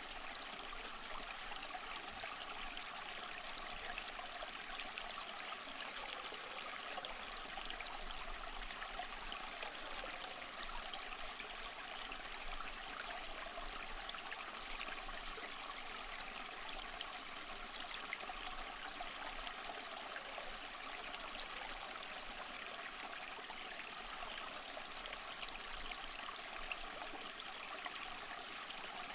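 Steady babbling and trickling of a flowing stream, an even rush of water without break.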